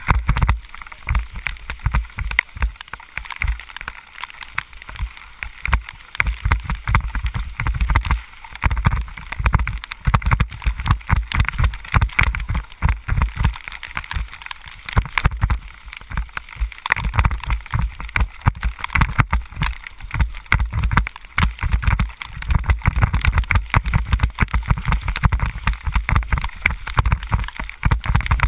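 Wind buffeting the microphone in constant gusts, over a steady wet hiss of rain and spray.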